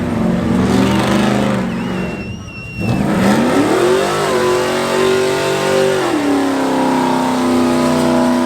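A truck's engine revved hard during a burnout. About three seconds in the revs climb sharply and hold high for about two seconds, then drop back to a steady, lower, loud run.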